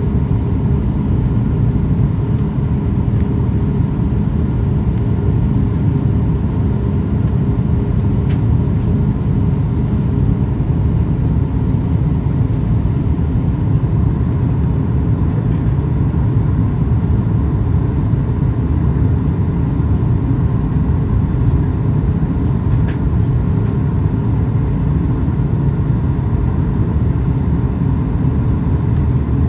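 Steady low rumble inside the cabin of a Boeing 737 MAX 8, with a thin steady hum above it and a few faint ticks.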